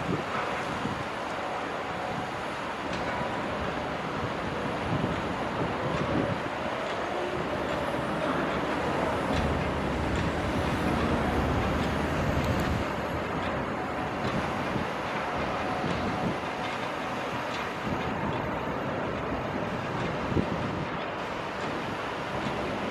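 CAT 320 crawler excavator working, with a steady machinery noise and scattered clanks.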